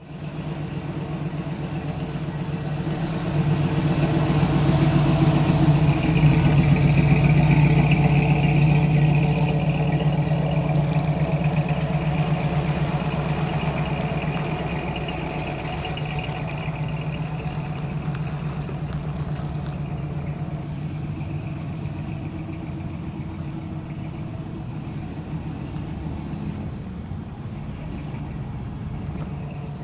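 1955 Chevrolet Bel Air's engine and exhaust running at a slow, steady speed as the car rolls past. It grows loudest about six to nine seconds in, then slowly fades as it moves off.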